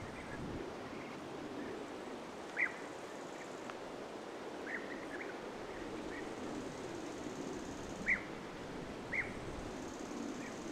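Wild birds giving short, falling chirps over steady outdoor background noise; three chirps stand out, about two and a half seconds in and twice near the end.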